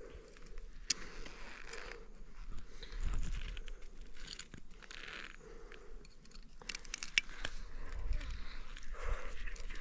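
Irregular rustling, crunching and scraping handling noises close to the microphone, with scattered sharp clicks, getting busier from about two-thirds of the way in.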